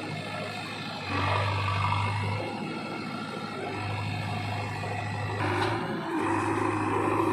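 JCB 3DX Xtra backhoe loader's diesel engine running under changing load, its hum falling back and picking up again as the hydraulics work. It grows louder about a second in and again near the end.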